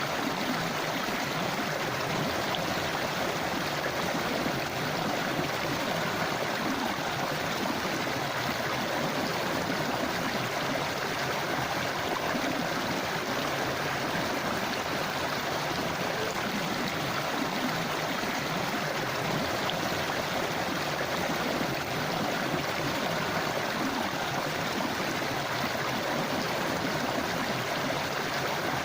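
A forest river flowing over stones, a steady rushing and gurgling of water with no change.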